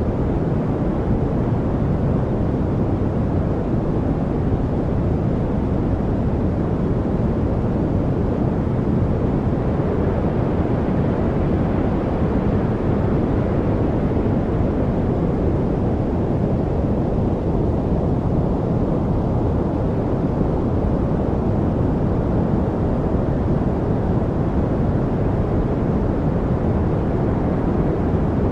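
Continuous white-noise track for studying: a steady, deep rushing hiss, heavier in the low end, with no change and no distinct events.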